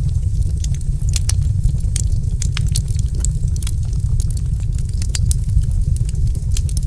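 Wood fire in a fireplace crackling: frequent sharp pops and snaps, several a second at irregular intervals, over a steady low rumble.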